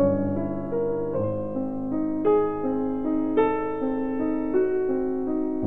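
Solo piano music: notes and chords struck about once a second, each ringing and fading.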